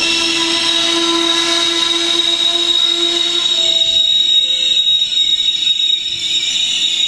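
Trenitalia passenger coaches rolling slowly along the platform, their brakes squealing in several steady high-pitched tones over the rumble of the wheels on the rails, with the squeal's lower pitches shifting about halfway through.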